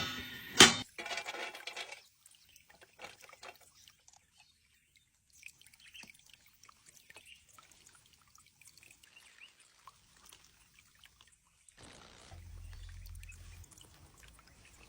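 Kitchenware knocking twice sharply with a short ring in the first second, then faint scattered ticks and crackles.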